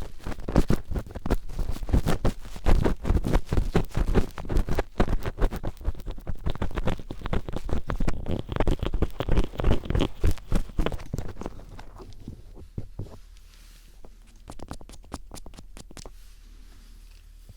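Phillips screwdriver tip scratching and tapping close against an ear microphone in a mock ear-cleaning. It makes a dense, rapid run of scrapes and clicks that drops to fainter, sparser scratching about twelve seconds in.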